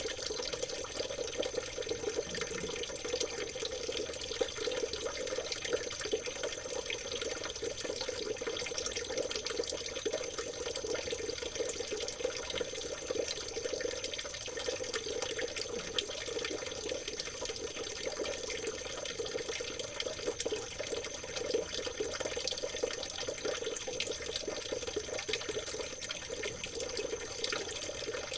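Stream water trickling and splashing steadily, with no pauses. A faint, steady high tone runs alongside it.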